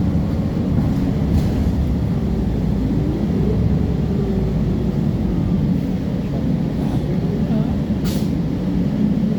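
City transit bus running steadily, its engine and drivetrain giving a low rumble, with short hisses: a faint one early and a louder one near the end.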